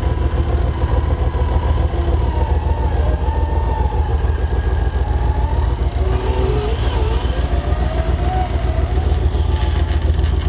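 Toyota FJ45 four-wheel drive's engine running steadily with a deep, continuous rumble, joined by a higher whine that wavers up and down in pitch.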